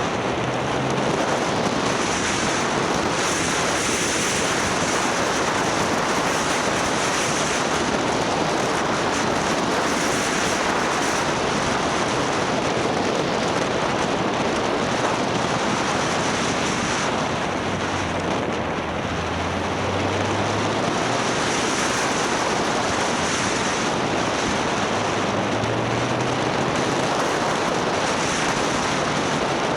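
Wind rushing over the microphone of a camera riding on a moving motorcycle, a steady loud roar of noise. The bike's engine sits faintly underneath and rises in pitch briefly twice, about two-thirds of the way through and again near the end.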